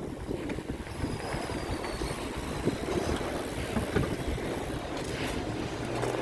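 Wind buffeting the microphone during a bicycle ride, with a steady low rumble that swells and falls irregularly.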